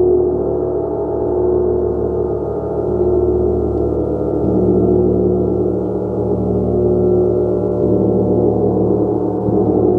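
Gong being played continuously, its repeated strokes blending into a dense sustained wash of many overlapping tones that slowly swells and eases.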